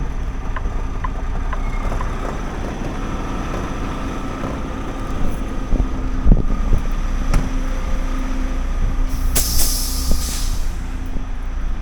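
Semi truck's diesel engine running steadily, heard from inside the cab, with a couple of sharp knocks midway and a loud burst of air hissing from the air brakes about nine seconds in.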